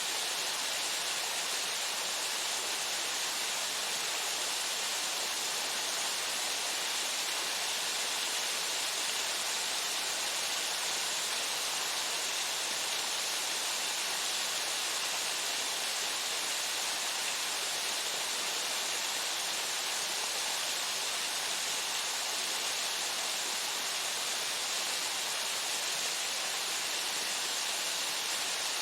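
Waterfall pouring steadily: a constant, even rush of falling water with a hiss-heavy top and little bass.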